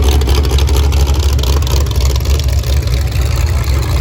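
Demolition derby car engines running together in a loud, steady low rumble.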